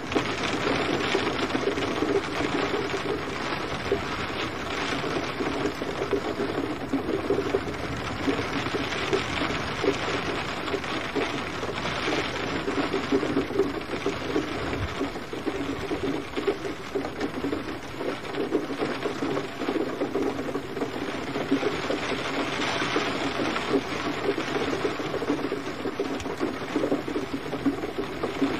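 Steady gentle rain pattering densely on a surface, swelling a little now and then, with no thunder.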